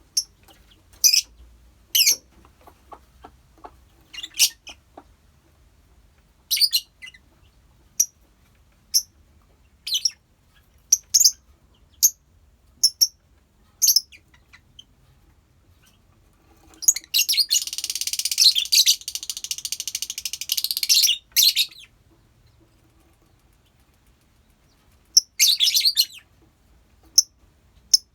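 Colony of lovebirds chirping: short, sharp, high calls about once a second, then about five seconds of dense, continuous chattering midway, and another short burst of chatter near the end.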